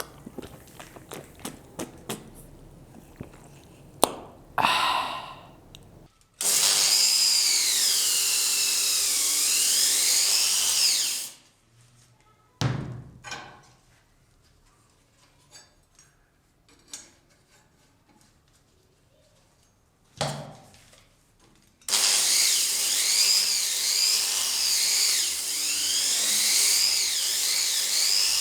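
A small power tool, of the drill or rotary type, runs in two bursts of about five to six seconds each, its whine wavering up and down in pitch. Clicks and knocks come before and between the runs.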